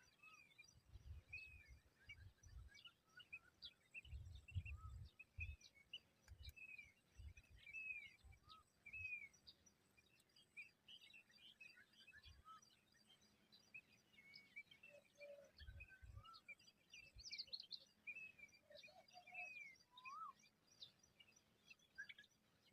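Faint birdsong: many short chirps and arcing calls from several birds, with dull low rumbles coming and going, most in the first few seconds and again past the middle.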